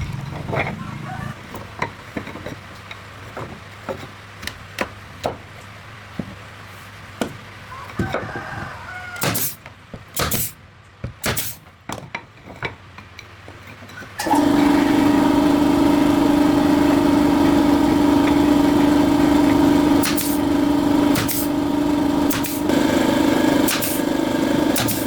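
Scattered sharp knocks and clicks, then about halfway through an engine starts up suddenly and keeps running loud and steady.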